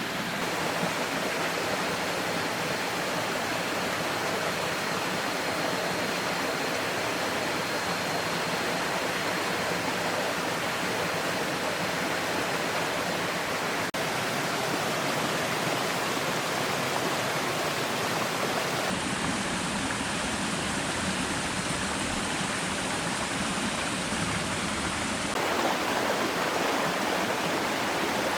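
Steady rushing water, a dense even hiss that shifts in tone about two-thirds of the way through and shifts back shortly before the end.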